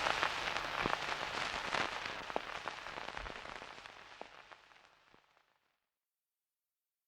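Crackling, rain-like noise with scattered sharp clicks, fading away steadily and ending about five seconds in.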